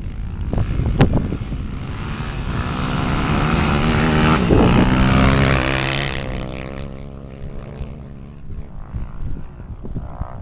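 A 250 cc racing engine passes at speed. It grows louder, peaks about halfway, drops in pitch as it goes by, then fades. There is a sharp knock about a second in.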